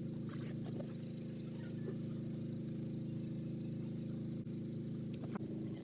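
A steady low machine hum made of several even tones, with a few faint light clicks and taps over it.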